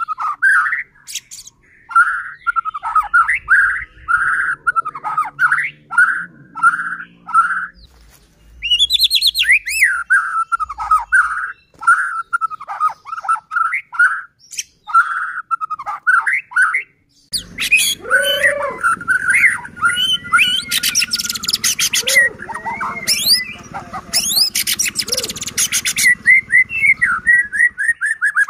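White-rumped shama (murai batu) singing: short whistled phrases repeated with brief gaps. About two-thirds of the way through it breaks into a denser, more varied song, cut twice by harsh, rasping rattles.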